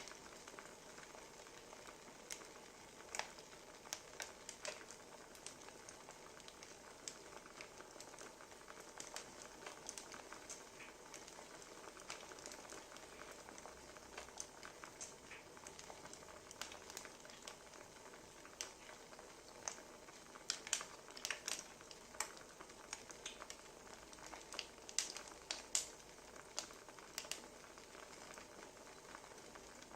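Wood fire crackling: irregular sharp pops and snaps over a soft, steady hiss, the pops coming thicker in the second half.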